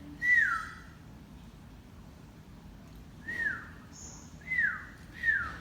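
Four short whistles, each starting on a high note and gliding downward, the first near the start and three more in the second half, with a brief faint high squeak about four seconds in.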